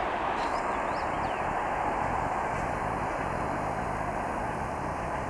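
Passenger train rolling away along the track: a steady noise of its wheels on the rails, with a few faint short high chirps in the first second or so.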